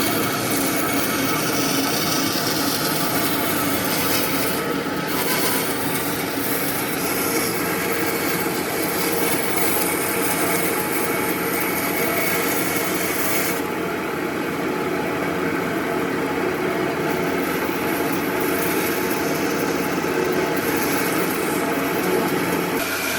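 A power tool working wood: a steady motor hum under continuous grinding, rubbing noise, with no break. The higher hiss drops back for several seconds past the middle, then returns.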